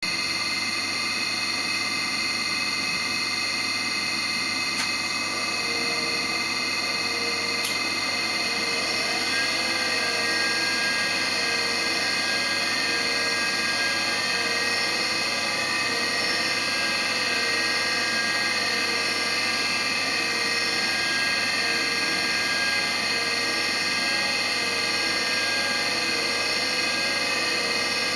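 Hauser jig grinder running, its high-speed grinding spindle giving a steady whine made of several high tones over an even hiss. Two faint clicks come about five and eight seconds in, and another tone joins shortly after.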